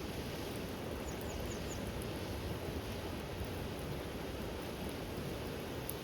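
Steady rushing noise of rain, even throughout, with a few faint high ticks and a quick run of four tiny high chirps about a second in.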